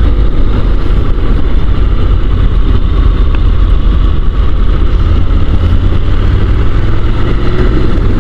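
Motorcycle riding along at a steady pace: a loud, steady rumble of engine and wind noise on a microphone carried on the bike or rider, unchanging throughout.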